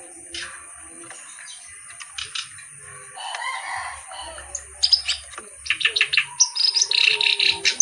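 A kerak basi (reed warbler) singing. Scattered faint notes open it, and about five seconds in it breaks into a rapid, loud, chattering run of repeated notes.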